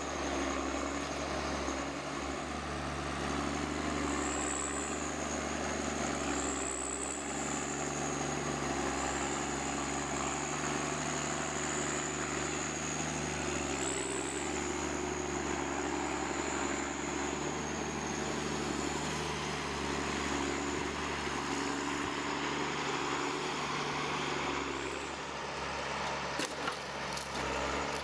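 Engine-driven machinery running steadily, with a high whine that wavers slightly in pitch. A few sharp clicks come near the end.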